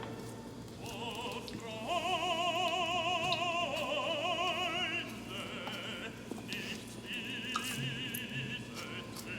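Background music of operatic singing: long held notes with a wide vibrato, in a few phrases with short breaks between them.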